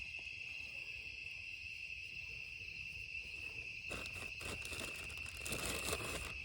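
Steady insect chorus, a continuous high-pitched chirring. From about four seconds in, irregular rustling and crinkling handling noises join it for a couple of seconds.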